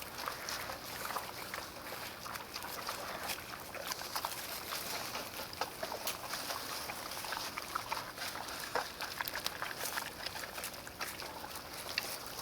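Potbellied pigs eating, with many quick, irregular crunching and smacking sounds.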